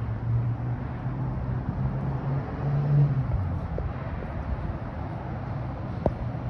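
Low engine rumble with a hum that shifts a little in pitch and swells about three seconds in, then eases off.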